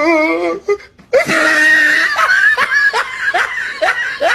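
A person laughing heartily in a quick run of short rising "ha" pulses, about three a second, starting about a second in after a brief wavering drawn-out vocal sound.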